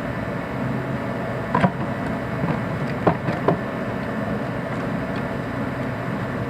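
A few short, light clicks and knocks of tools or parts being handled in a car's engine bay, over a steady background hum.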